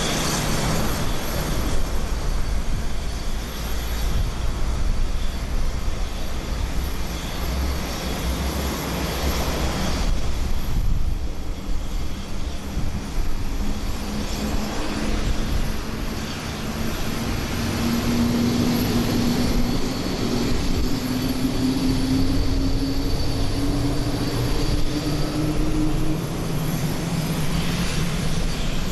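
Jet noise from an Airbus A350-900's Rolls-Royce Trent XWB engines as the airliner lands, a steady roar with an engine tone that climbs slowly in pitch through the second half.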